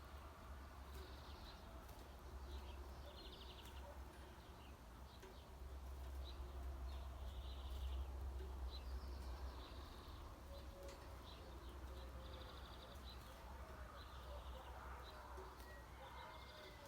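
Small birds calling, with short high buzzy trills and chirps repeating about once a second, and a thin whistled note near the end.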